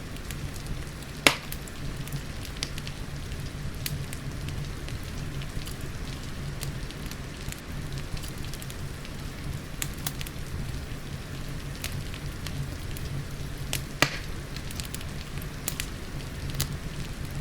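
Wood fire crackling in a fireplace, with many small sharp pops and two louder pops, one about a second in and one near the end, over the steady hiss of rain.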